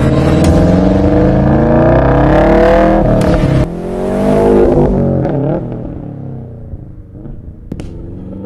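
Turbocharged Subaru with an AWE cat-back exhaust accelerating hard, its exhaust note rising in pitch; about three and a half seconds in the level drops suddenly, it pulls and rises again briefly, then the pitch falls and the sound fades away.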